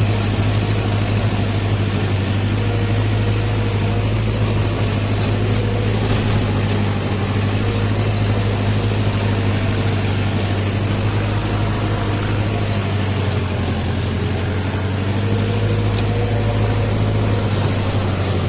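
Mahindra Novo 655 DI 4WD tractor's diesel engine running at a steady speed, a constant low hum with no revving.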